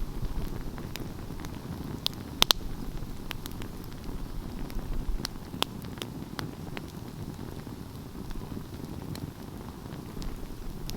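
Wood fire burning with a steady low rumble and scattered sharp crackles and pops, the loudest a quick double pop about two and a half seconds in.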